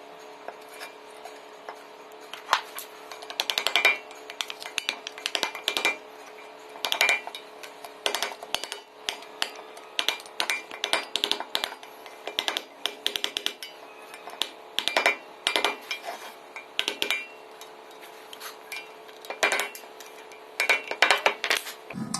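Repeated sharp metal-on-metal clicks and taps, in quick clusters over a faint metallic ring, as a steel circlip is worked into its groove in a steering knuckle to lock in a new wheel bearing.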